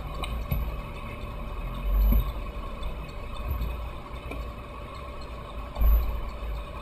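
Toyota Tacoma pickup crawling over off-road terrain, heard from inside the cab: a steady low rumble that swells twice, about two seconds in and near the end.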